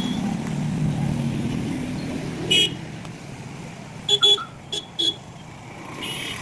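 A road vehicle goes by, its low engine sound fading over the first couple of seconds. A horn then beeps in short toots: once about two and a half seconds in, then four quick toots a second and a half later.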